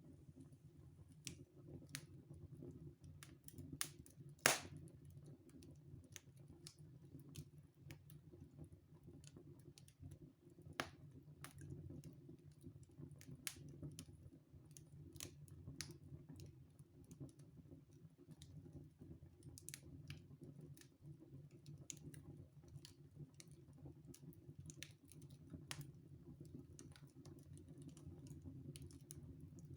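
Wood fire crackling in a fireplace: irregular sharp pops and snaps over a low steady rumble, with one louder pop about four and a half seconds in.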